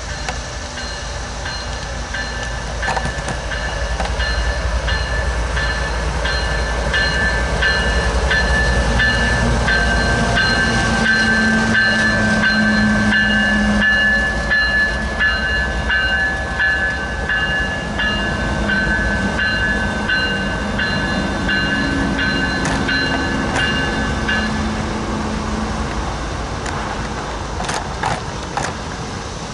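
A train passing close by. Its wheels click at a regular pace over rail joints under a low rumble, and a steady high-pitched squeal stops about 24 seconds in. The sound swells toward the middle and eases off.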